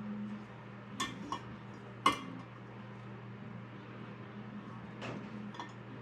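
Metal tools and parts clinking against each other, with five sharp clinks, the loudest about two seconds in. A steady low hum runs underneath.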